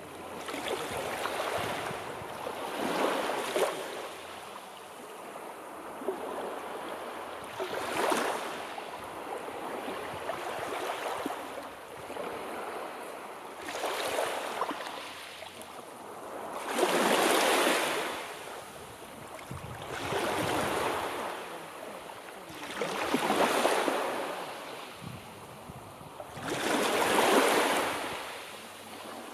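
Sea waves breaking and washing in, swelling and fading every few seconds, the biggest surges about seventeen and twenty-seven seconds in.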